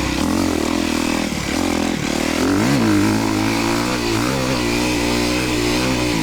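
Motocross dirt bike engine running and revving, its pitch rising and falling sharply about two and a half seconds in, then running more steadily.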